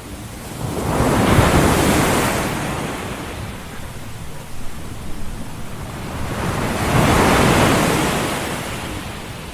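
Ocean surf: two waves wash in, about six seconds apart, each swelling quickly to a loud hiss and fading slowly as it recedes.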